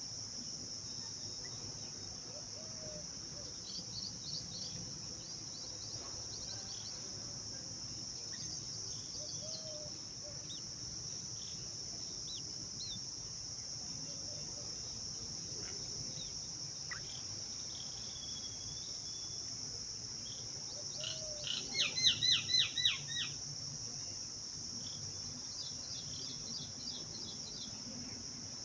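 Steady high-pitched drone of crickets, with scattered short bird chirps. About three-quarters of the way in comes a loud, rapid run of about eight chirps lasting a couple of seconds, from the bulbuls at the nest.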